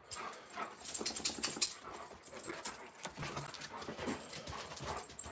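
Alaskan Malamute making soft sounds at close range, with a quick run of clicks and scuffs about a second in.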